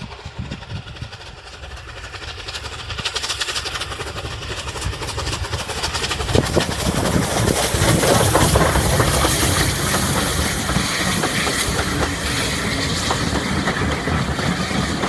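Steam train running along the track, growing louder over the first several seconds and then staying loud, with wheel clatter and some hiss.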